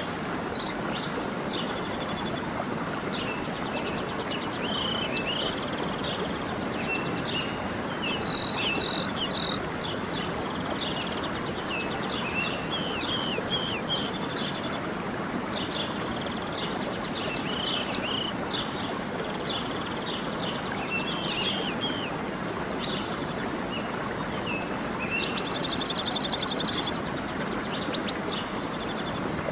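Stream running steadily, with many songbirds chirping, trilling and whistling over it.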